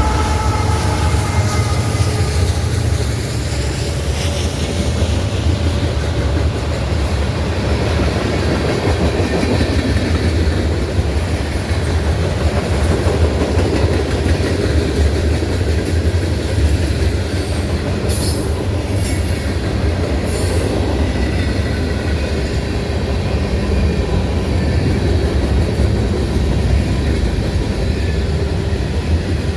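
A train rolling past close by, with a steady heavy rumble and clatter of wheels over the rails. The horn's last note fades out in the first couple of seconds, and brief high wheel squeals come about two-thirds of the way through.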